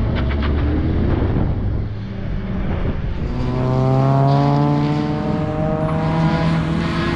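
A car engine on a race circuit pulling under load. Its note eases off around two seconds in, then rises steadily from about three seconds in before levelling off near the end.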